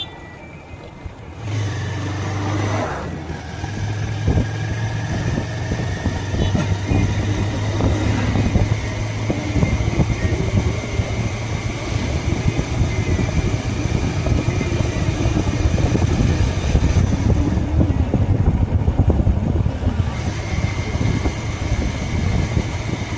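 Motorcycle engine running steadily on the move, with road and wind noise; it gets louder about a second and a half in.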